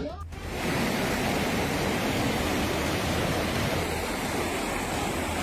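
A steady rushing noise with no distinct events, fading in over the first half second and then holding even.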